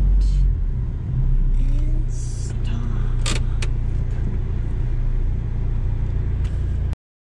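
Car engine running with a steady low rumble, a sharp click or two about three seconds in. The sound cuts off abruptly just before the end.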